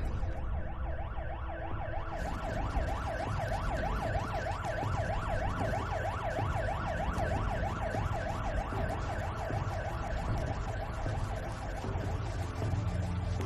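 Emergency vehicle siren in a fast yelp, its pitch sweeping up and down several times a second over a steady low rumble, fading near the end.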